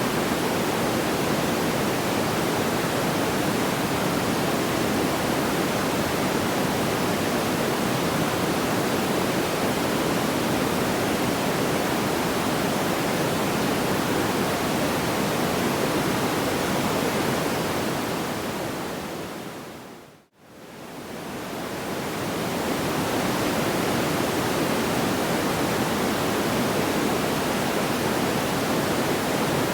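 Steady rushing noise, like pink noise, with no crackles or pops. About twenty seconds in, it fades out to silence and fades back up within a few seconds, which looks like the join of a repeating loop.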